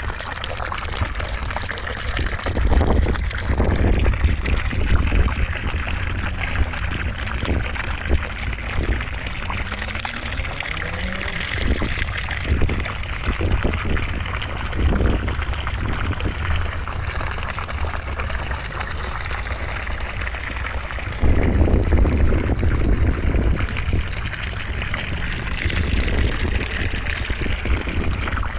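Running water gushing steadily: a continuous rushing hiss over a low rumble, which swells louder for a few seconds about three-quarters of the way through.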